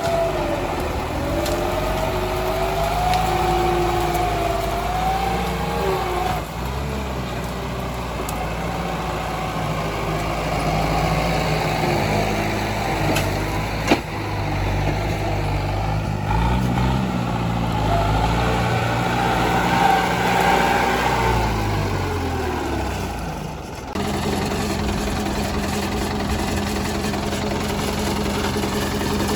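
Tractor engine running under changing load, its pitch rising and falling, with a single sharp knock about halfway through. A little past two-thirds of the way in, the sound switches abruptly to a steady, even engine note.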